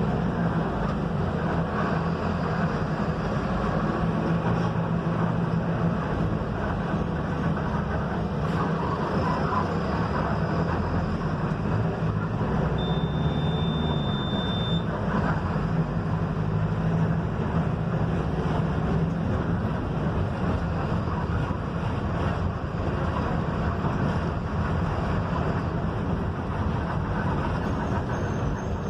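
Mercedes-Benz OF-1721 bus's diesel engine and road noise, steady and continuous while the bus is under way. Near the middle a thin high beep sounds for about two seconds.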